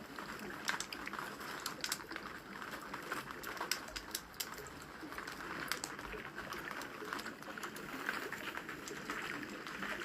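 Wood fire crackling with frequent irregular sharp pops and snaps, over a steady hiss of falling rain.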